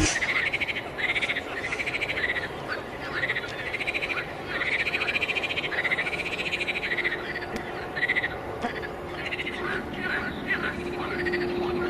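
A chorus of frogs calling: many overlapping, repeated croaking calls, each a short pulsed rise and fall in pitch, with a faint steady low hum joining in the second half.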